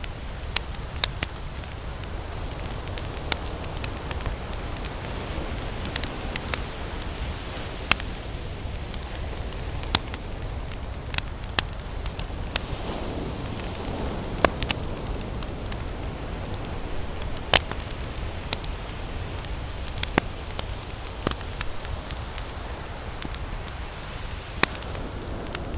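Campfire crackling, with sharp irregular pops about every second over a steady low rushing noise.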